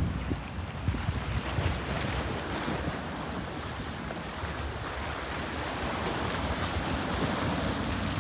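Sea waves washing, with a steady low rumble of wind noise on the microphone.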